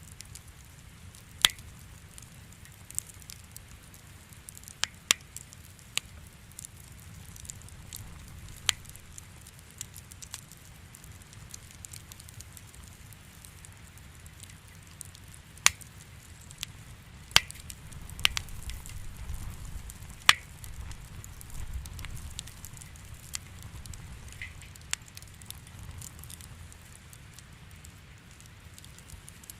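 Wood fire crackling in a fireplace: irregular sharp pops and snaps, a few of them much louder than the rest, over a low steady rumble of the flames.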